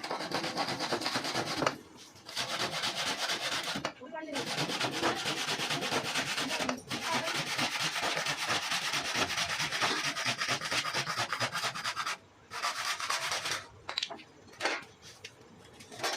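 Sanding: an abrasive rubbed hard over a surface in long continuous stretches, with short breaks, turning to short intermittent strokes near the end.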